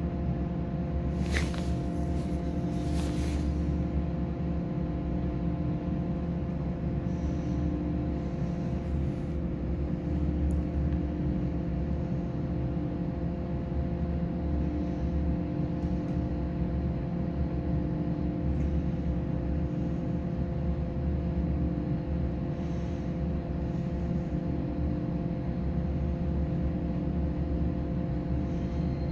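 Steady low machine hum with several fixed tones, heard inside a stationary passenger train carriage. Two brief high-pitched clatters or squeals come about one and three seconds in.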